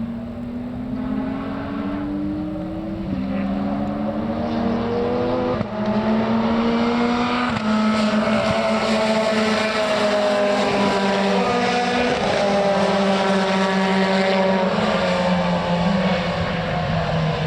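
Racing car engine accelerating hard, the pitch climbing and dropping sharply at three upshifts in the first half, growing louder, then holding high revs at full volume with the pitch sagging slightly.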